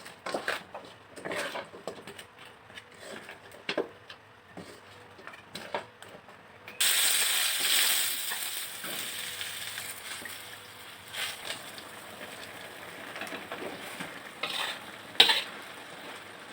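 Food-handling sounds: scattered clicks and crackles, then a sudden hiss about seven seconds in that fades slowly, with one sharp click near the end.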